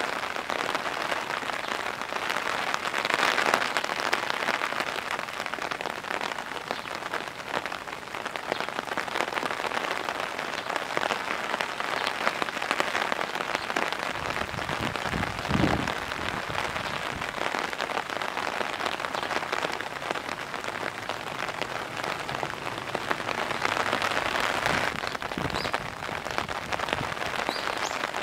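Heavy rain falling, a dense steady patter of drops on surfaces, with one short dull thump about halfway through.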